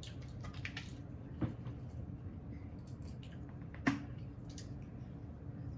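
Hot sauce being shaken out of a bottle onto food: quiet handling noises with two sharp taps, one about a second and a half in and one about four seconds in.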